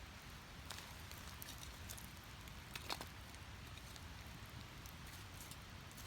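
Split firewood burning in an open fire: a soft steady hiss with scattered crackles and pops, one sharper pop about three seconds in.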